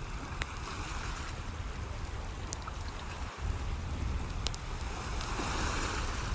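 Wood fire crackling, with a few sharp pops, over a steady wash of sea waves; a wave swells about five seconds in.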